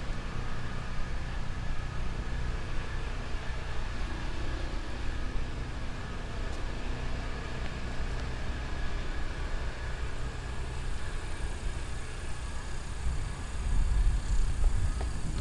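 Ride noise from an electric unicycle rolling along a street: a steady low rumble with a faint, even motor whine above it. The rumble grows louder near the end.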